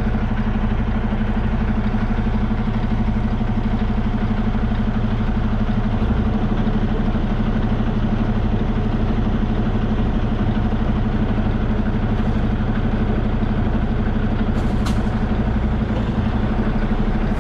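Semi-truck diesel engine idling steadily, with one short sharp sound near the end.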